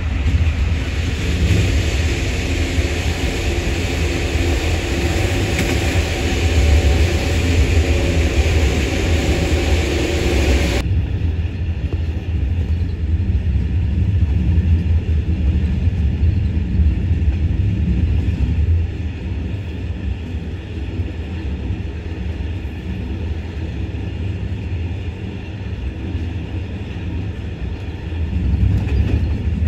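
Low, steady rumble of a moving passenger train, with a hiss of running noise over it that cuts off abruptly about eleven seconds in, leaving only the deep rumble.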